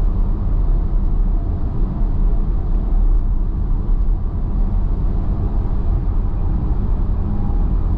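Steady road and wind noise inside an electric car's cabin at highway speed, about 60 mph: a constant low rumble from the tyres on dry pavement, with no engine sound.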